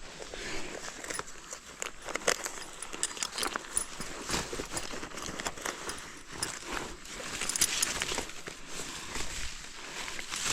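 Footsteps crunching through dry leaves and twigs: irregular crackles and rustles.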